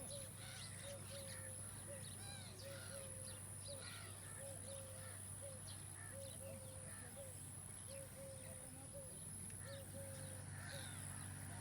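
Outdoor field ambience of many small birds chirping, with a low short call repeating about twice a second. A steady low hum and a steady high-pitched whine run underneath.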